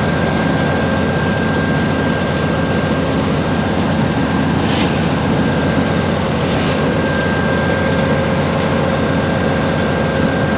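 VIA Rail diesel passenger locomotive running steadily as the train pulls away from the station, with a constant whine over the engine noise.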